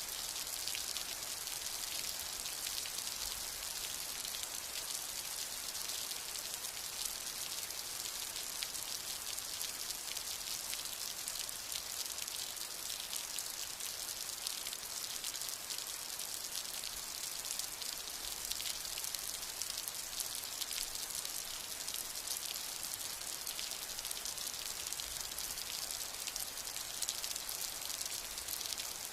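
Steady, heavy rain: a dense hiss of drops pattering on surfaces, with no thunder.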